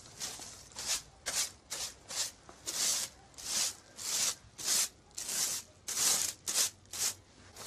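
A small broom made of a bundle of stiff thin sticks sweeping loose, fine grit on the ground. It makes quick scratchy swishes, about two a second, some fifteen strokes in all.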